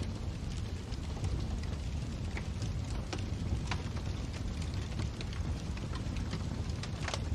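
Wood fire burning in a fireplace: a steady low rumble of flames with scattered sharp crackles and pops, a few each second, and a slightly louder pop near the end.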